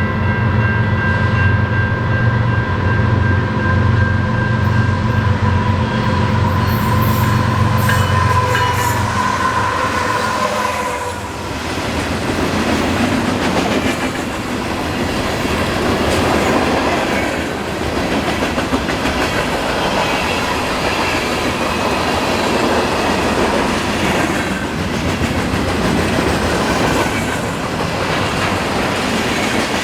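Diesel-powered train passing close by. For about the first ten seconds its engine runs with a held multi-note horn chord, and then the cars roll past with a steady rhythmic clatter of wheels over rail joints.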